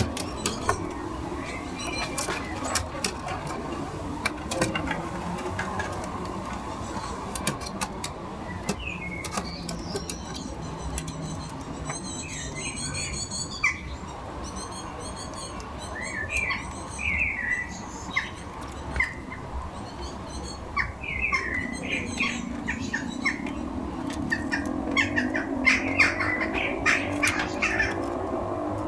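Garden birds chirping and calling in short, quick notes, with scattered sharp clicks and taps.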